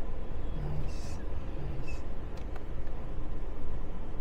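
Steady low rumble of background noise, with faint voices in the distance.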